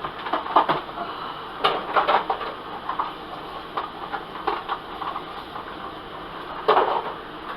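Kitchen work noises: irregular clinks, knocks and rustling as food and cookware are handled, over a steady hiss, with a louder clatter near the end.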